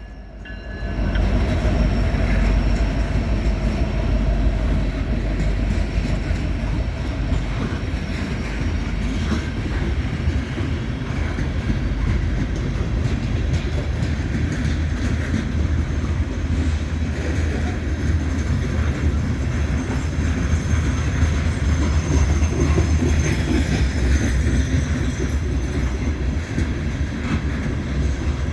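Freight train rolling past: a steady, loud low rumble of locomotives and railcars on the rails, with wheel clatter.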